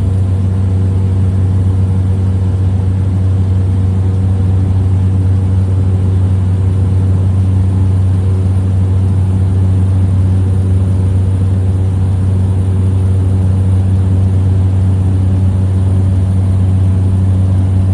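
Small plane's engine and propeller running at a steady cruise, a loud low drone with a steady hum above it, heard from inside the cabin.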